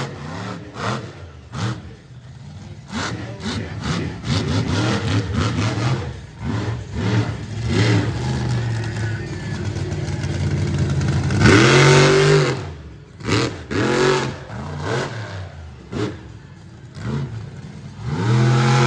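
Monster truck's supercharged V8 being revved hard in many short bursts, its pitch rising and falling with each blip of the throttle. The loudest and longest rev comes about two-thirds of the way through.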